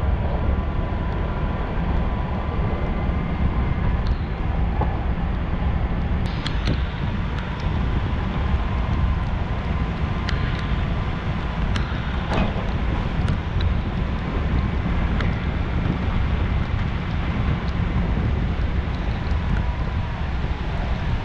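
Vehicle driving: a steady low rumble of engine and tyres, with a few sharp ticks scattered through.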